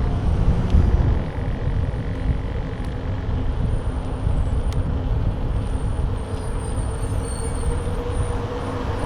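Wind rumbling over a bike-mounted action camera's microphone while cycling along a road, with a steady hum in the background.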